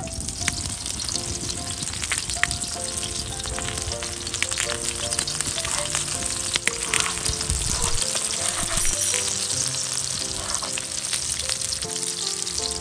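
Chapli kababs sizzling steadily as they shallow-fry in melted fat on a large flat metal griddle, with a few sharp clicks as the metal spatula works them.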